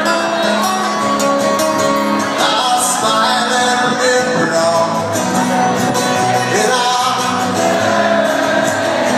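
Live rock band playing a song with a guitar and drums, sustained held notes throughout, with a voice singing or playing over it.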